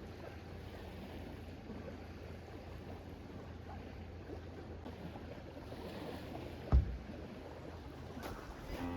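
Steady lakeside ambience of water lapping over a low rumble, with one sharp thump about two thirds of the way in.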